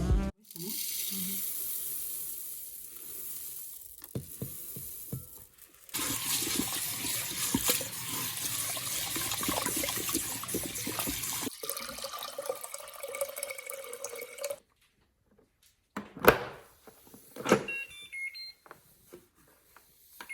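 Kitchen tap running into a sink in two spells, the second louder, with water splashing. Near the end come two sharp clicks and a few short electronic beeps.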